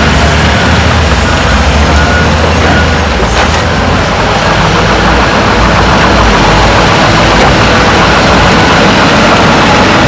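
Heavy diesel earthmoving machinery running steadily at work, a loud low engine rumble.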